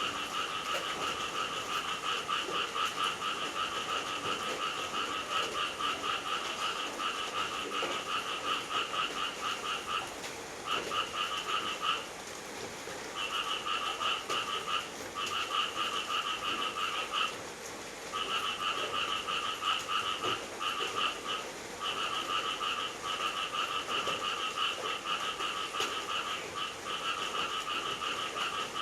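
Frogs calling in a steady chorus of rapid, trilling pulses, broken by a few short pauses around the middle.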